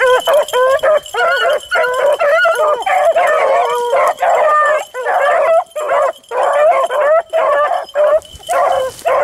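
A pack of beagles baying as they run a rabbit, several dogs' voices overlapping in rapid, near-continuous calls.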